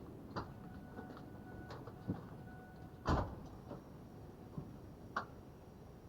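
A few scattered clicks and knocks, the loudest a single thump about three seconds in, with a faint high steady tone coming in just after it. The engine is not running.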